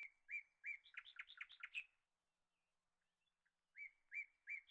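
A bird singing faintly: a phrase of three even whistled notes followed by a quick run of about seven short notes, with the phrase starting again near the end.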